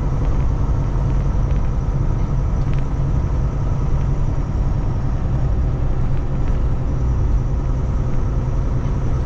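Kenworth T680 semi-truck's diesel engine running with a steady low rumble.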